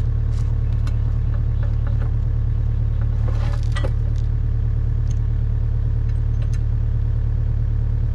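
Kubota U55 mini excavator's diesel engine running steadily, with a few light clinks and knocks as the hammer mount is swung and lined up for its bolts.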